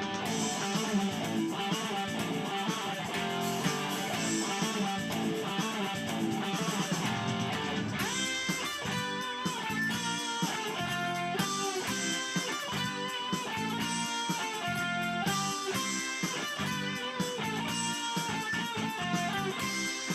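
Guitar music: a plucked electric guitar playing a busy melodic line of many quick notes.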